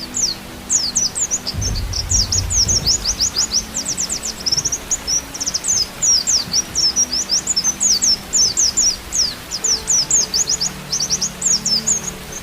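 White-eye (pleci) singing a fast, unbroken run of short, high, sliding chirps. Beneath it runs a faint, steady low tone, and there is a brief low rumble about a second and a half in.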